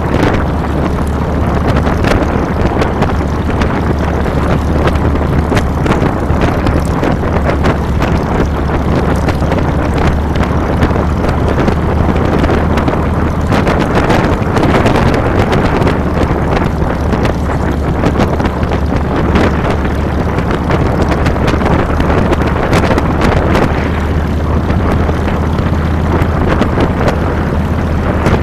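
Harley-Davidson Fat Boy's V-twin engine running steadily under a rush of wind on the handlebar-mounted microphone.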